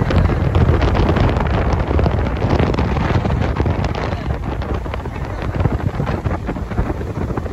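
Heavy wind buffeting the microphone on a motorboat under way at speed, over the rush of the boat's running engine and water. The buffeting is strongest in the first half and eases slightly after about four seconds.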